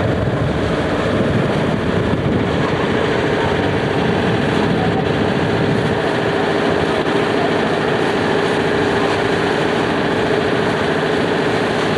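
A boat's motor running steadily at a constant pitch.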